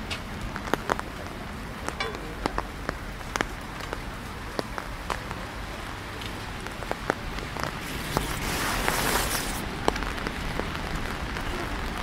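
Steady rain pattering on the lakeside promenade, with many sharp scattered drips and drops. A louder hiss swells for about a second and a half roughly eight seconds in.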